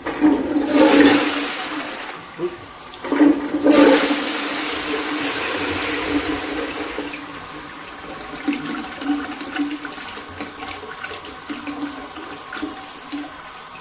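A high-level chain-pull toilet cistern with a dual-flush siphon being flushed: water rushes down into the pan right away, surges again with a click about three seconds in, then carries on as a steady, gradually easing flow.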